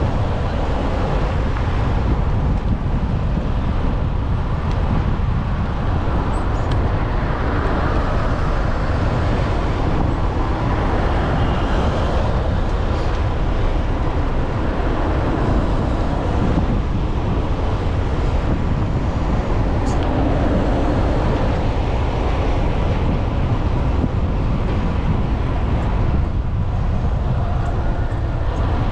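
Steady rumble of wind buffeting the microphone of a moving bicycle, over the even noise of city street traffic.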